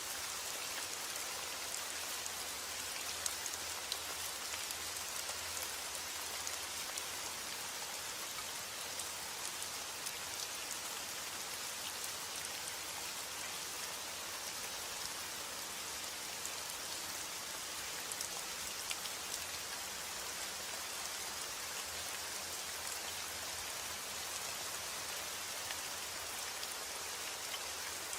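Steady rain falling, a constant hiss with fine individual drop ticks scattered through it.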